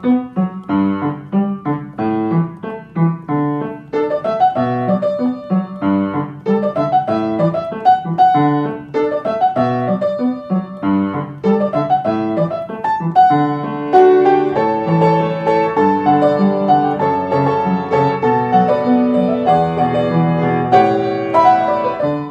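Solo piano music, quick rhythmic notes and chords.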